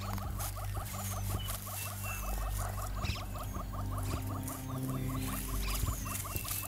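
An insect pulsing in a fast, even trill of about nine pulses a second over a low steady hum, with a few faint, short high chirps.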